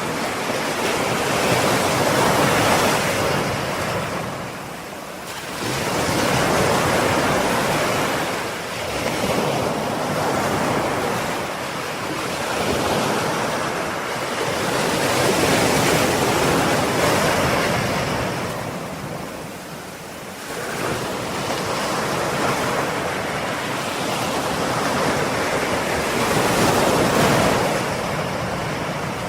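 Ocean waves breaking and washing up the shore, a steady surf that swells and ebbs every few seconds, with some wind on the microphone.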